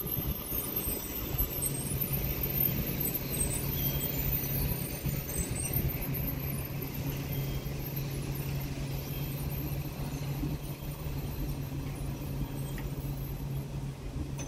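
Train noise: a steady rumble with a low, even hum that comes in about a second and a half in.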